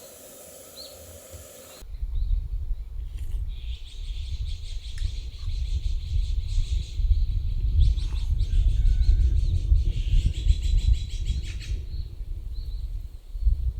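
Birds chirping in rapid, high trills, in two long runs, over a heavy, uneven low rumble.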